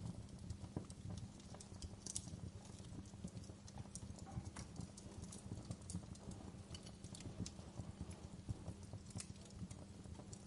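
Wood fire in a fireplace crackling, with irregular sharp pops and snaps from the burning logs, several a second, over a low steady rumble.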